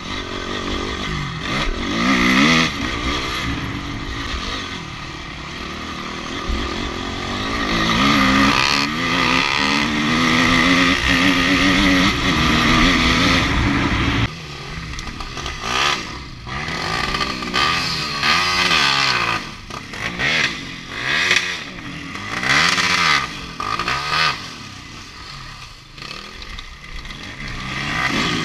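Enduro motorcycle engine heard from on the bike, revving up and down through the gears at speed for the first half. From about halfway it changes abruptly to short bursts of throttle that rise and fall about once a second, with lower dips between them.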